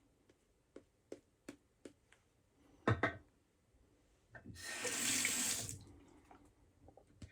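Bathroom sink tap running briefly, about a second and a half of water, after a few light clicks and a louder double knock.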